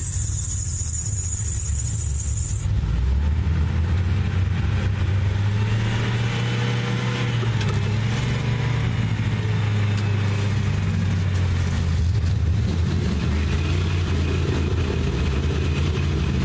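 Off-road truck engines running under load, a deep steady drone that grows louder about three seconds in and shifts slightly in pitch. A thin high whine sounds over it for the first couple of seconds, then stops.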